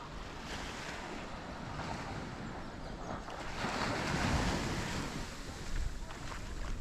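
Small sea waves breaking and washing up the sand, one wash swelling to a peak about halfway through and then drawing back, with wind buffeting the microphone.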